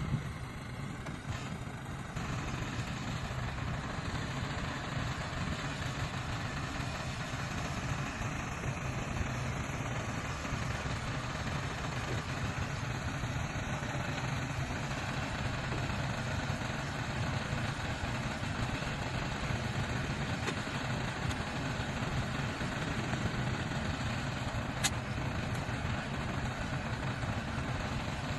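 Heavy diesel engine of earthmoving machinery running steadily with a low rumble, and a single sharp click near the end.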